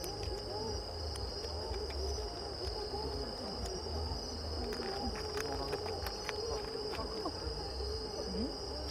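Crickets trilling in a steady high band over the murmur of many voices in a crowd, with a few faint sharp clicks in the middle.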